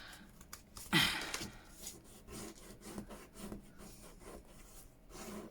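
Washi tape being handled on a paper journal page: a short rip about a second in, then fingers rubbing and scratching the tape down onto the paper.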